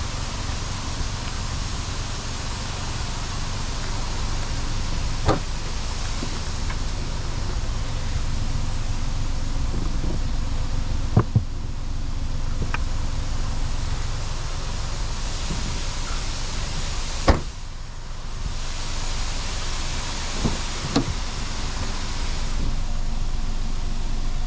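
The 2015 MINI One's 1.2-litre three-cylinder petrol engine idling with a steady low rumble. Several sharp knocks and clicks sound over it, the loudest about two-thirds of the way through, as the car's boot and doors are opened and shut.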